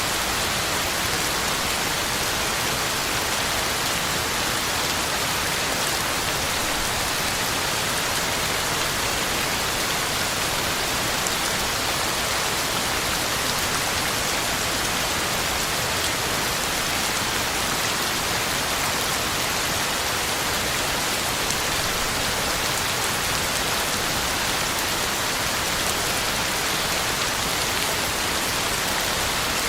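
Heavy rain falling steadily, a constant even hiss with fine drops pattering on the ground and leaves.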